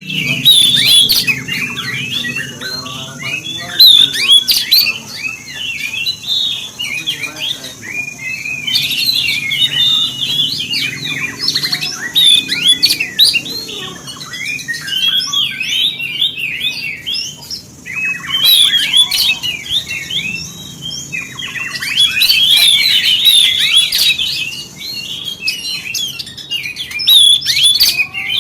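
Oriental magpie-robin (kacer) singing: a fast, varied stream of high chirps, whistles and rasping notes, with a few short breaks.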